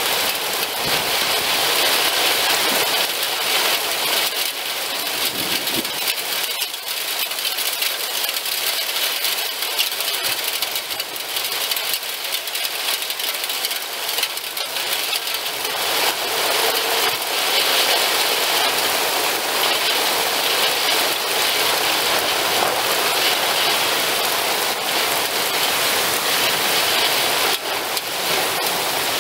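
Heavy rain mixed with hail pouring down onto a lawn and the surfaces around it: a dense, steady hiss full of small hits.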